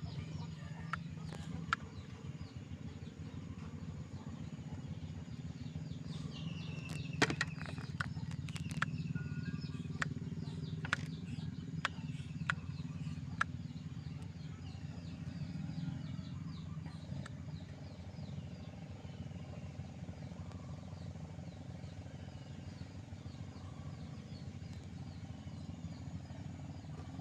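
Birds chirping in short, repeated calls, busiest in the first half, over a steady low hum, with a few sharp clicks.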